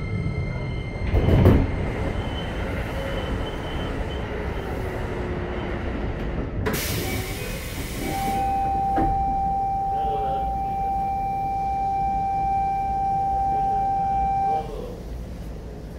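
Interior running sound of a Keikyu 1500-series electric train with a Toyo IGBT-VVVF drive slowing for a station. A loud knock comes just over a second in, then the motor whine falls in pitch. A steady high squeal sets in about halfway through and cuts off near the end, when the running noise drops as the train comes to a stop.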